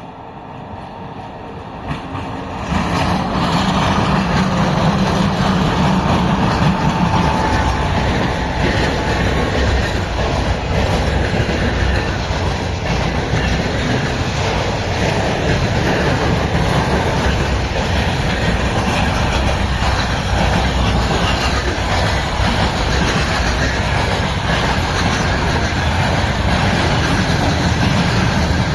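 Freight train hauled by a 2ES6 electric locomotive passing close by. The noise swells sharply about three seconds in, then holds as a steady, loud rumble as the wagons roll past.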